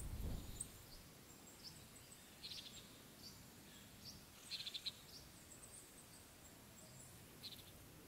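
Faint outdoor countryside ambience with scattered short, high-pitched chirps and a brief rapid trill from small wild birds. A short low rumble sounds right at the start.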